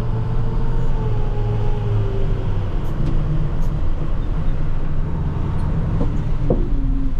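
Plow truck engine running steadily, heard from inside the cab, with a faint steady whine over it in the first few seconds.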